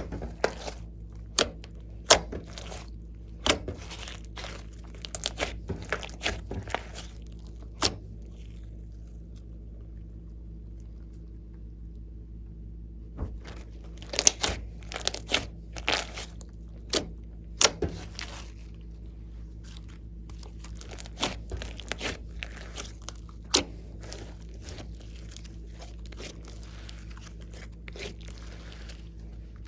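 Slime being squeezed and worked by hand, with sharp pops and crackles as trapped air bursts. The pops stop for a few seconds in the middle, then start again and thin out towards the end, over a steady low hum.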